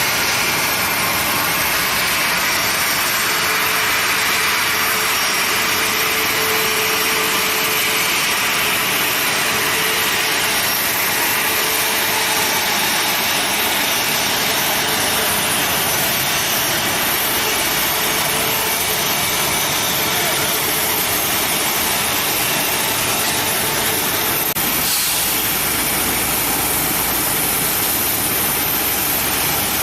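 Boeing 737-800 jet engines (CFM56-7B) running during pushback: a steady loud rush with a thin high-pitched whine over it. A second high whine joins about 25 seconds in.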